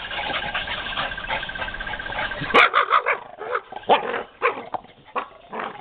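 Staffordshire bull terriers barking and yipping during rough play, a run of short sharp barks starting about halfway through, after a couple of seconds of steady noise.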